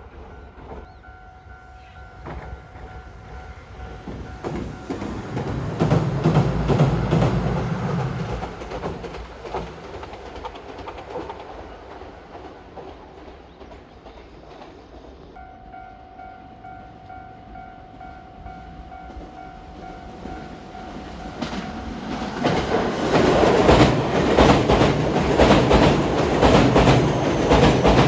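Railway level-crossing bells ringing and trains passing at speed, wheels clacking over the rail joints. A train goes by with a heavy low rumble about six seconds in. Near the end a JR 227 series electric train crosses a steel girder bridge, its joint clatter the loudest part.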